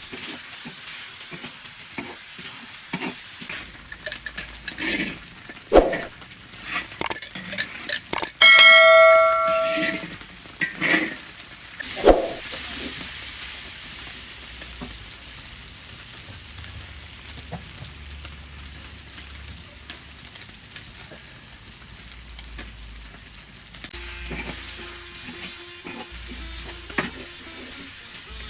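Pork curry sizzling in a pan while being stirred, with scraping knocks of the utensil against the pan. About eight seconds in, a metal pot or utensil rings out once and dies away over about a second.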